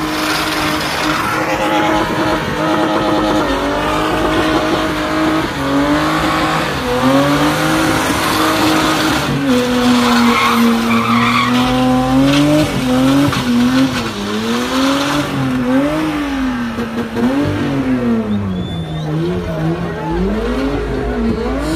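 BMW E30 spinning with its rear tyres screeching, the engine held at steady high revs at first, then rising and falling again and again from about ten seconds in as the throttle is worked during the spins.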